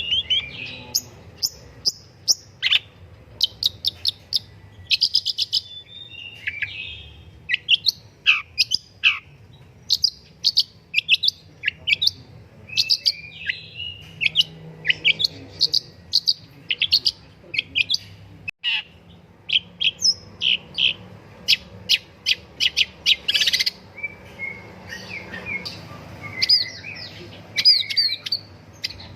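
Long-tailed shrike (pentet) in full song: a fast, unbroken run of sharp chattering notes and quick down-slurred whistles.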